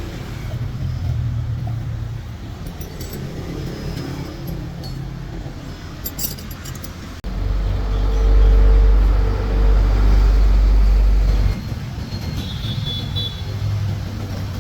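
Truck engine running with a steady low hum. About seven seconds in, a much louder low rumble starts suddenly and cuts off about four seconds later.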